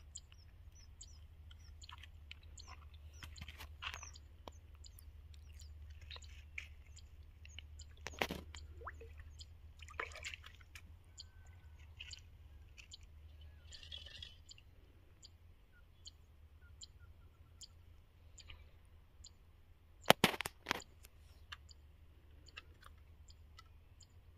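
Small birds chirping faintly and repeatedly over a low steady hum, with a few sharp knocks about 8 and 10 seconds in and a louder pair of knocks near the end.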